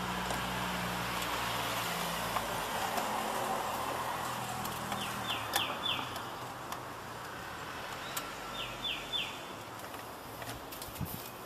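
A bird chirping in short runs of three or four quick falling notes, twice, over a low engine hum that fades away within the first few seconds. There are a few light clicks near the end.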